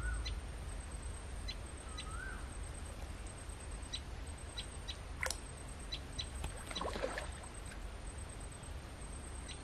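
Outdoor ambience under a low steady rumble: a bird gives two short chirps that rise and fall in pitch, faint high ticks are scattered throughout, and there is a brief rustle about seven seconds in.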